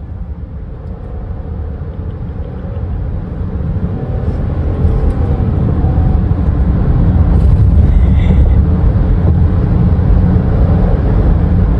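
Road and engine noise inside a Chrysler Pacifica minivan's cabin while driving: a deep, steady rumble that grows louder over the first five seconds, then holds.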